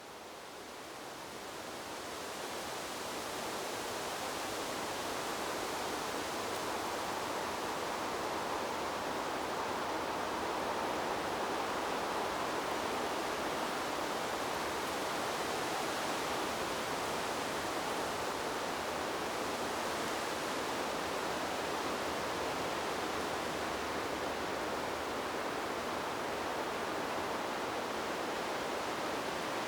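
Steady rushing noise of wind blowing through trees. It fades in over the first few seconds, then holds even.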